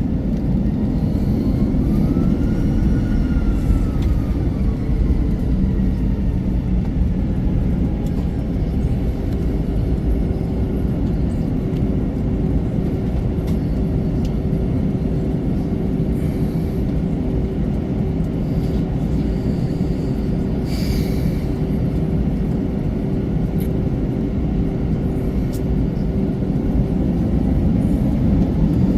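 Steady low rumble of an Airbus A321-200 heard from inside its cabin on the ground, with a steady hum and a faint whine that rises and falls a couple of seconds in.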